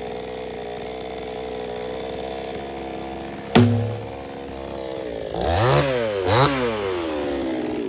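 Chainsaw idling steadily, with one sharp knock about halfway through, then revved up and back down twice in quick succession near the end.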